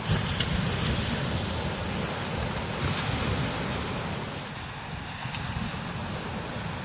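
Strong desert wind blowing over sand dunes: a steady rushing hiss with low buffeting rumble of wind on the microphone, gustier in the first few seconds and easing slightly after about four seconds.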